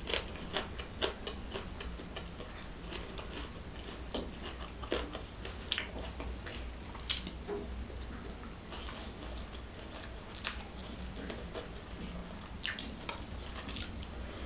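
Close-miked chewing and wet mouth sounds of someone eating rice and sambal by hand, with small irregular clicks and smacks throughout. A steady low hum lies underneath.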